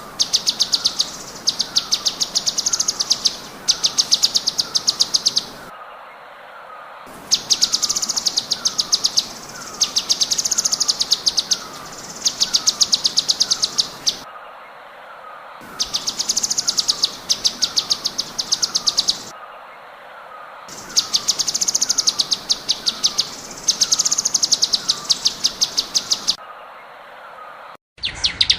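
A songbird singing phrase after phrase of very rapid, high trilled notes, each phrase about a second long, with short gaps between them. A fainter short falling chirp repeats steadily underneath. This is bird-tutoring song played on a loop, with abrupt cuts in places and a louder trill starting right at the end.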